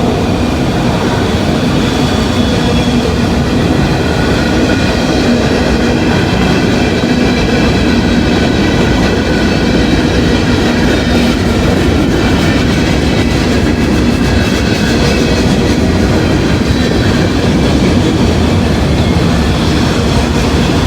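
Long freight train's cars rolling steadily past, wheels clattering over the rails, with faint high ringing from the wheels.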